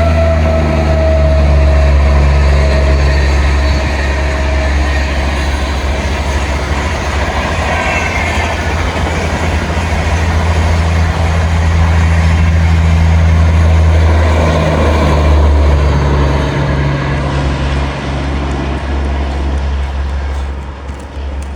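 A train passing close by, with a steady low rumble and the noise of the wheels on the track. A falling tone fades out over the first few seconds, and the sound eases near the end.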